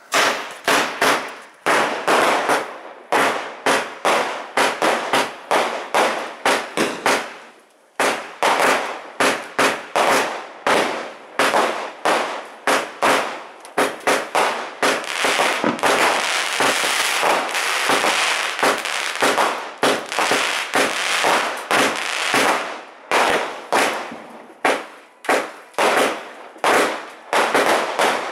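Morrisons Magnificent Finale 144-shot firework cake firing its sequence of shots, about two to three sharp bangs a second, starting at once. The bangs pause briefly about eight seconds in, and in the middle stretch they come so fast they run together.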